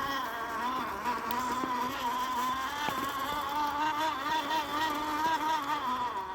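Axial SCX10 II RC crawler's electric motor and geared drivetrain whining as it drives, the pitch wavering up and down with the throttle.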